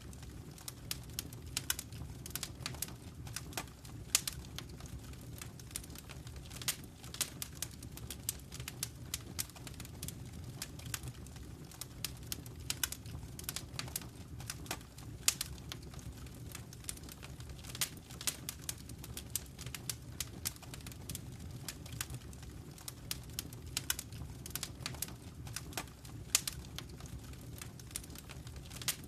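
Wood fire in a fireplace crackling: a steady low rumble of burning, with many irregular sharp pops and snaps, several a second.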